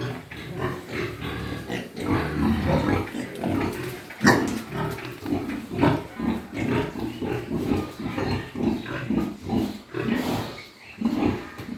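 Pigs grunting and calling in a quick, irregular stream, with one louder cry about four seconds in.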